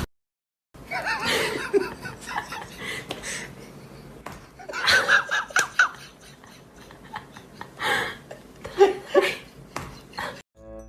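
People laughing in three bouts of short bursts, with quieter stretches between them.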